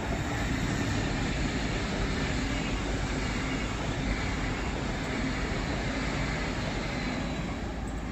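SBB Astoro (ETR 610) tilting electric train passing close by at speed: a steady rumble and hiss of wheels on the rails, easing off slightly near the end as the train moves away.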